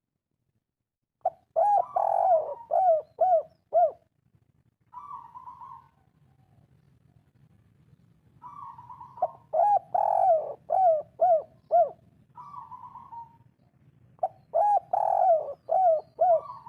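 Spotted dove cooing in its 'kuk 3' song: three phrases, each a run of rising-and-falling coos ending in a few short clipped notes, with softer single coos between the phrases.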